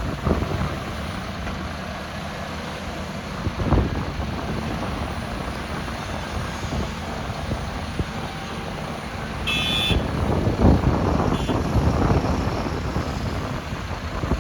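LiuGong 950E hydraulic excavator's diesel engine running steadily at work, with a few heavy knocks about four seconds in and again around ten to twelve seconds in. A brief high beep sounds just before the ten-second mark.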